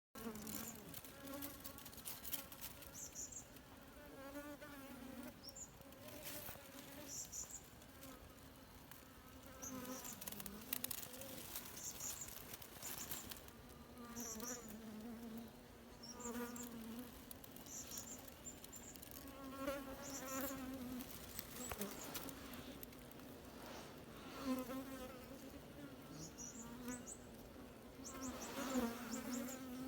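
A mass of bees buzzing inside an underground nest, heard up close: a continuous low hum that wavers in pitch and strength. Short high chirps recur every second or two over it.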